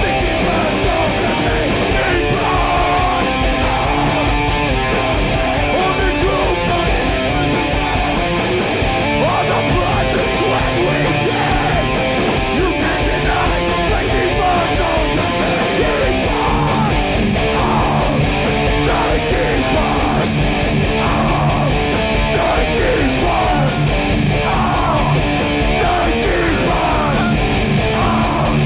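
A hardcore punk band playing live: loud distorted electric guitars, bass and drums, with no singing.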